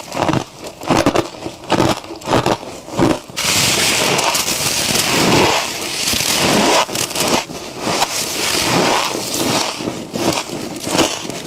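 Close-miked biting and chewing of squeaky, crunchy freezer frost: a run of sharp separate crunches, then a sudden change about three and a half seconds in to dense, nearly continuous crunching for a few seconds, then separate crunches again.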